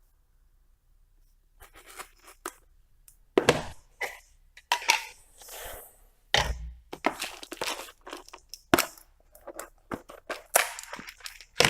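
Rummaging through small parts and their containers for an O-ring: after a quiet start, irregular clicks, rustling and light clatter, with a few sharp knocks.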